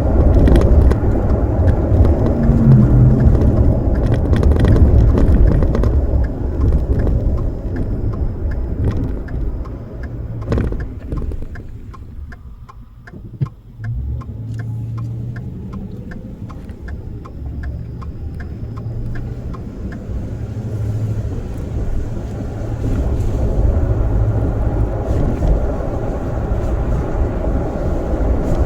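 A deep, rolling rumble that fades away about halfway through, with a sharp click, then builds up again. In the quieter middle stretch a faint, even ticking runs at about two ticks a second.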